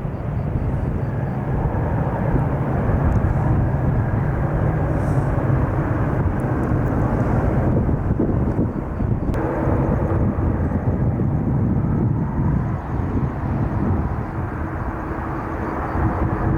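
Loud jet airliner engines, a steady low rumble with no pause. About nine seconds in the sound changes abruptly and a steady hum joins the rumble.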